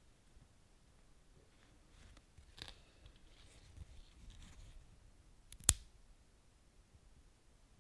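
Wood fire crackling faintly with sparse small pops, then one sharp, much louder pop about three-quarters of the way through.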